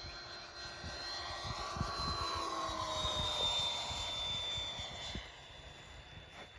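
Radio-controlled electric model airplane flying past: a high motor whine swells, drops in pitch as it goes by about three seconds in, and fades.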